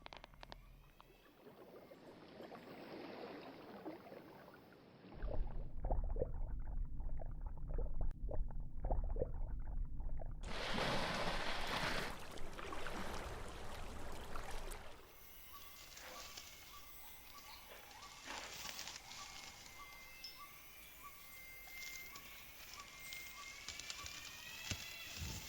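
Rainforest sound in several cuts: a quiet stretch with faint calls, then about five seconds of loud low rumbling and crackling, a burst of rushing noise, and from about halfway on a steady chorus of animal calls, with a short call repeating evenly and rising whistled calls near the end.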